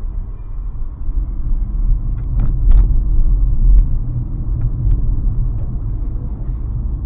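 Car driving, with a steady low road rumble and a few sharp knocks or bumps in the middle.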